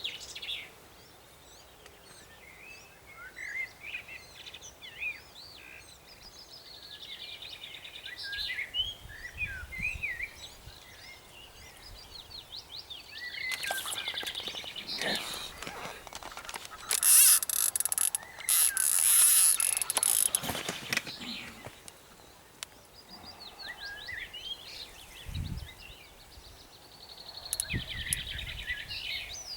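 Small birds singing and chirping steadily around open water. About halfway through, several loud rustling, handling noises.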